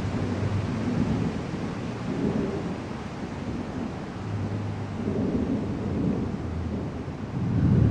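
Thunder rumbling in low, rolling swells that rise and fall several times, over the steady hiss of rain. A louder roll of thunder builds near the end.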